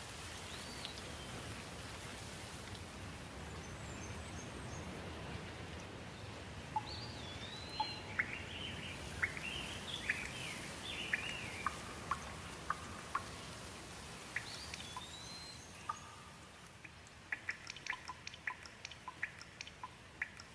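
Steady hiss of falling water with wild birds calling over it: a few whistled calls rising and falling, a run of chirps in the middle, and a quick series of sharp ticks near the end.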